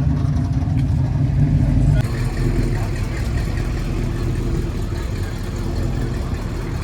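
A car engine running with a deep, steady rumble. The sound changes abruptly about two seconds in and carries on as a rougher, lower rumble, with faint voices in the background.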